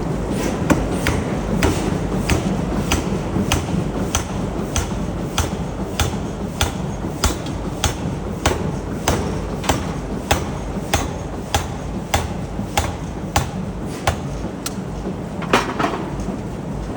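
Forging hammer striking hot steel in a steady rhythm, about one and a half blows a second, over a continuous low rumble of factory machinery.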